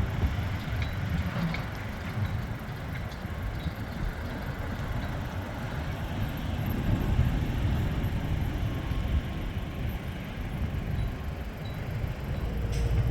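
Low rumble of a passing train, fading over the first couple of seconds, then holding steady.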